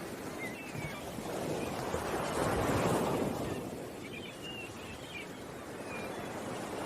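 Ocean waves washing in, one swelling to its loudest about two to three seconds in and then drawing back, with small birds chirping now and then.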